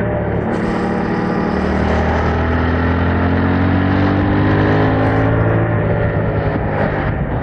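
2021 Yamaha MT-07's 689 cc parallel-twin engine running through its stock exhaust while riding. It rises in pitch as the bike accelerates for a few seconds, then holds a roughly steady note.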